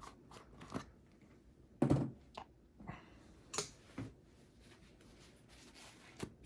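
A series of small clicks and knocks from hands handling small objects and packaging, about eight in all, the loudest about two seconds in.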